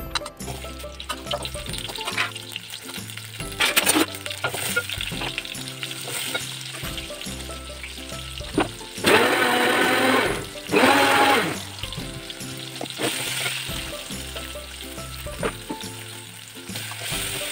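Shallots sizzling as they fry in a steel pot, stirred with a plastic spatula, over background music. The frying is interrupted by two loud stretches of about a second each around the middle.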